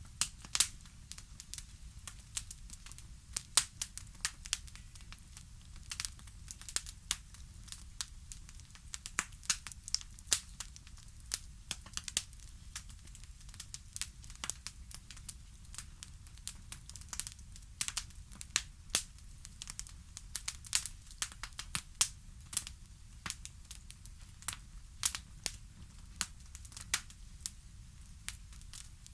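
Fireplace crackling: irregular sharp pops and snaps of burning wood over a low steady rumble of the fire.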